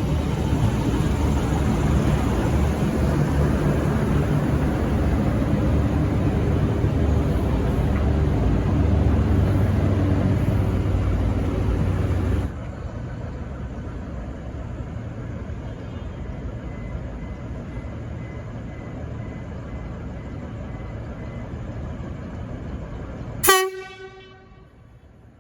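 V/Line VLocity diesel railcar train running loudly past along the track, a dense rumble of engines and wheels that cuts off suddenly about halfway through to a quieter background. Near the end the train's horn gives one short toot.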